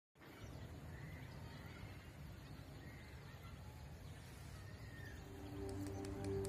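Faint outdoor ambience with low rumble and hiss, and a few soft bird chirps in the first few seconds. Music with long held tones fades in near the end.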